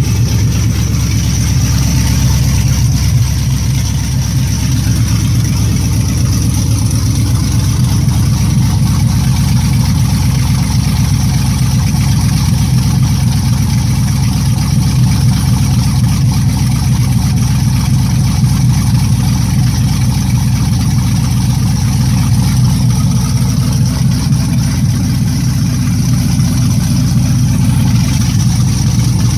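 A 1969 Camaro's swapped-in LS3 6.2-litre V8 idling steadily, with no revs.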